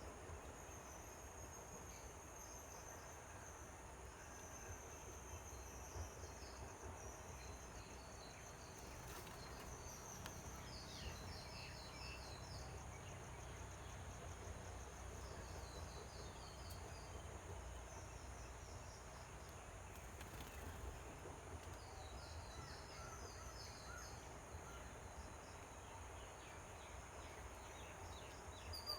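Faint outdoor ambience: a steady high-pitched insect drone, with birds giving short bursts of quick chirps about three times.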